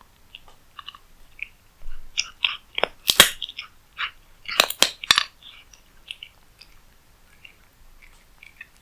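Cat eating cat food close to the microphone: small wet chewing clicks, with a burst of loud, sharp crunches about two seconds in that lasts some three seconds, then quieter chewing.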